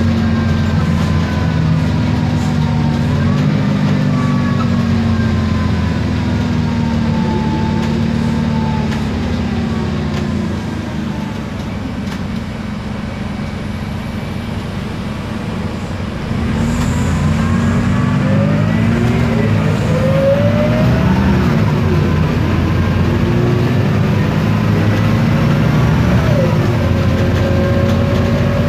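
Isobus City 1200 city bus driving: MAN D0836 LOH diesel engine running with the ZF Ecomat 6HP504C automatic gearbox and differential whining in gliding tones. It eases off and goes quieter about ten seconds in, then picks up again about sixteen seconds in with a rising whine as the bus accelerates.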